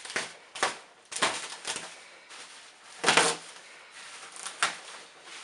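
Cardboard box and protective wrapping being handled and pulled open: a series of short rustles and knocks, the loudest about three seconds in.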